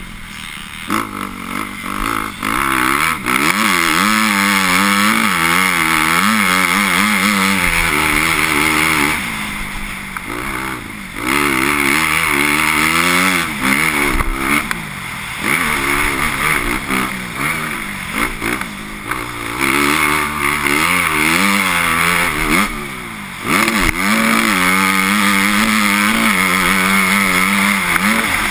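Motocross bike engine revving hard, its pitch climbing and falling again and again as the throttle is worked, with the throttle backed off briefly about ten seconds in and again about twenty-three seconds in.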